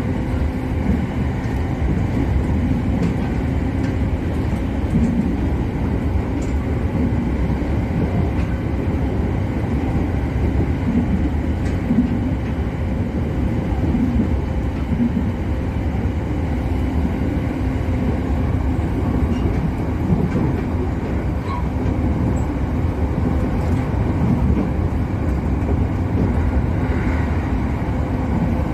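Steady running noise of an electric commuter train heard from inside the front car, a low rumble with a faint steady hum and occasional light clicks from the rails.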